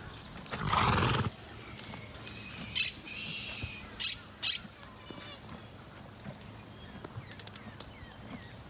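Animal calls: one loud call of about half a second roughly a second in, then shorter high bird squawks around three seconds and twice just after four seconds.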